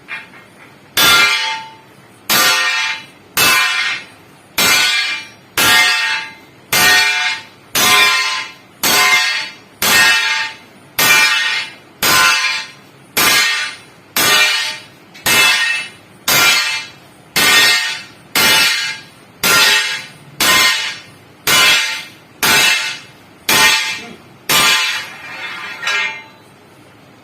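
A hammer striking the steel of a truck leaf spring about twenty times at a steady pace of roughly one blow a second, each blow a loud metallic clang that rings briefly.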